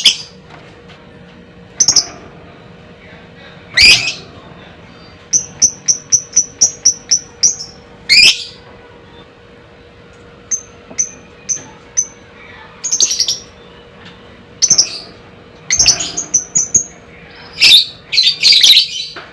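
Fighter lovebird calling: loud, shrill single chirps a second or two apart, two short runs of rapid repeated high notes, and a dense burst of chattering calls near the end.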